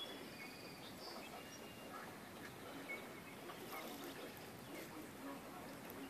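Faint outdoor ambience with a steady low hiss and scattered short, high bird chirps and calls.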